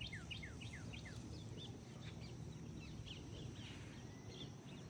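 Birds chirping outdoors: many short, quick chirps that slide downward in pitch, coming in rapid runs, over a steady low background rumble.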